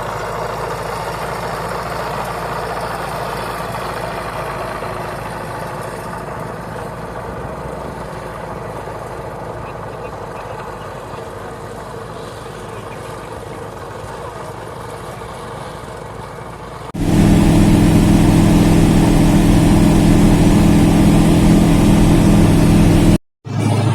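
Light aircraft engine running steadily, slowly getting quieter. About 17 seconds in, a sudden cut brings a much louder, steady low drone.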